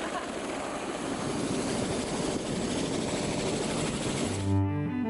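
Helicopter engine and rotor noise, a steady dense rush, cutting off suddenly about four and a half seconds in as music with low bowed strings begins.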